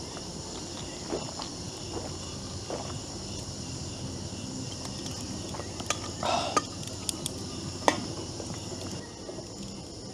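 Crickets and other night insects chirring steadily, with a few scattered sharp clicks and a brief rustle about six seconds in.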